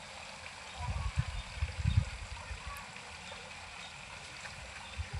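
Steady outdoor hiss like running water, with a few low rumbles on the microphone about one and two seconds in.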